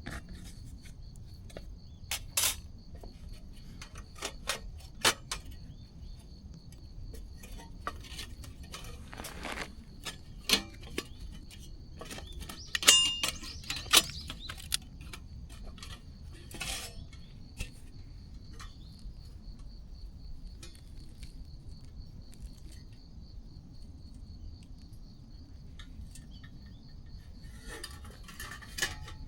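Scattered light metallic clinks and clicks, with one ringing clink about thirteen seconds in, over a steady faint high-pitched chirring.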